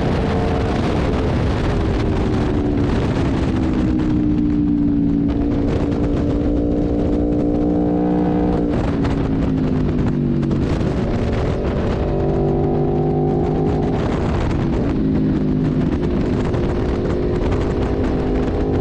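Aprilia RSV4 1100 Factory's V4 engine being ridden hard on track, its revs repeatedly climbing and falling through the gears, with a sharp drop in pitch about nine seconds in. A steady rush of wind and road noise sits underneath.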